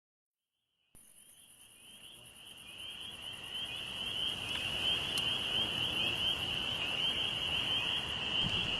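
An insect's steady high-pitched trill, fading in after about a second and cutting off abruptly near the end.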